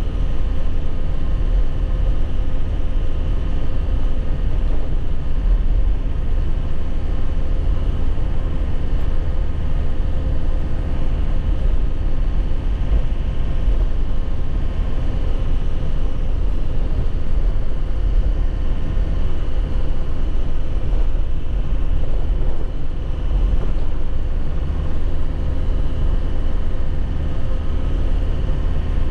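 A 2001 Nissan Cabstar light truck driving, heard from inside the cab: steady engine and road rumble with a faint steady hum above it.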